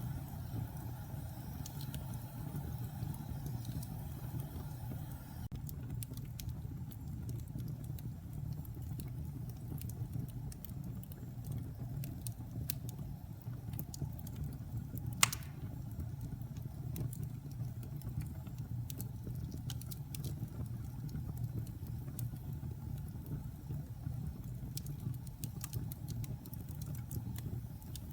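Wood logs burning in a fireplace: a steady low rumble of the fire with scattered small crackles and one sharp pop about halfway through.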